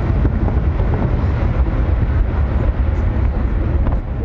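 Large aerial fireworks shells bursting in quick succession, their booms merging into a continuous heavy rumble.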